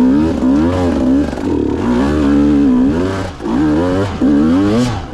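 Two-stroke enduro dirt bike engine revving up and down over and over under throttle, with short drops off the throttle about three and four seconds in.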